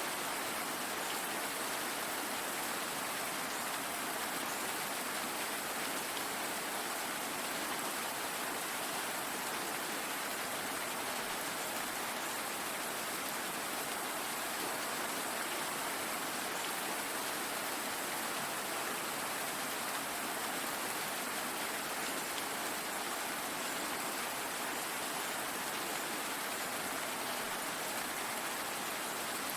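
Steady rain falling on surfaces, an even hiss of many raindrops with no change in strength.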